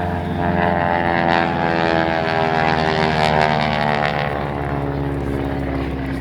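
Propeller-driven airplane flying past. Its engine and propeller drone swells to a peak midway, and the pitch drops as it goes by.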